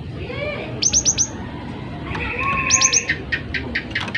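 Cinereous tit (gelatik batu) calling in an excited run: a quick burst of four high, sharp notes about a second in, then a buzzy churr and a rapid string of repeated notes near the end.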